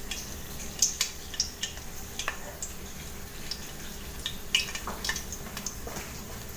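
Otak-otak fish cakes frying in hot oil in a small steel pot: a steady sizzle with scattered sharp pops and taps as a metal spoon moves them around.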